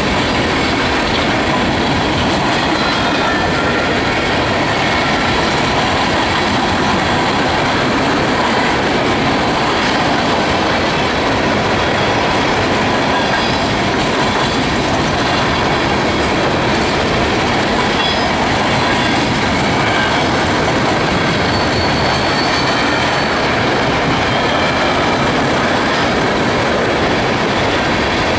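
Coal hopper cars of a freight train rolling past, a steady rumble of steel wheels on the rails with clicking over rail joints and brief, faint squeals of wheel flanges here and there.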